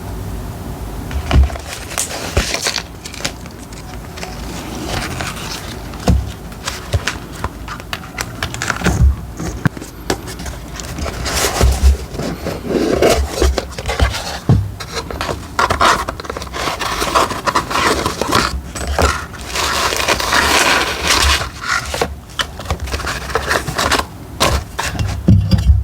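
Paper and stickers being handled on a desk for diary decorating: scraping and rustling broken by frequent small taps and clicks.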